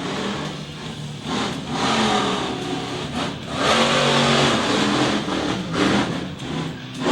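Monster truck engine revving hard in repeated throttle surges during a timed qualifying run, the longest and loudest about halfway through.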